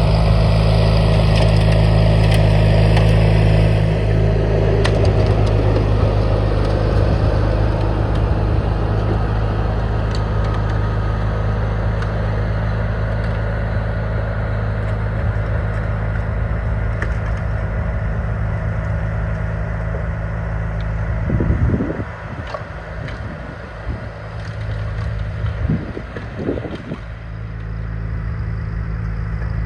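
John Deere 420 garden tractor's engine running steadily while snowblowing. The engine sound dips about three quarters of the way through, with a couple of short surges, then steadies again.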